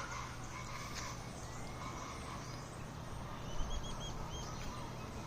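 Birds calling outdoors: a quick run of short, high chirps in the second half, over a steady background hiss.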